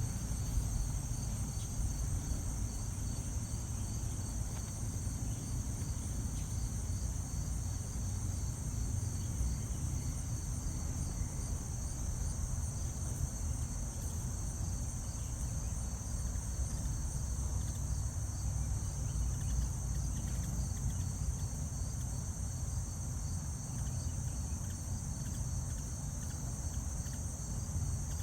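Steady outdoor chorus of crickets, a continuous high-pitched trill, over a constant low rumble.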